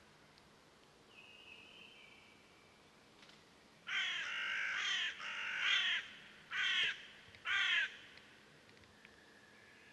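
A bird calling four times in harsh, rasping calls, the first two about a second long and the last two shorter, with faint thin whistles before and after.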